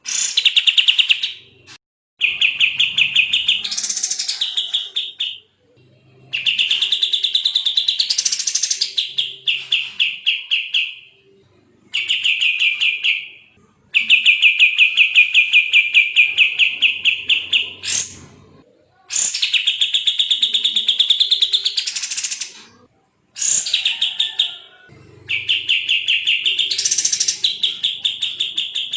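Kapas tembak songbird in full song, delivering repeated rapid-fire trilled phrases of one to three seconds each, separated by short pauses.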